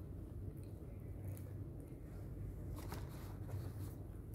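Faint eating sounds: a person chewing a bite of chicken sandwich and handling the bread, with a few soft clicks, over a low steady hum.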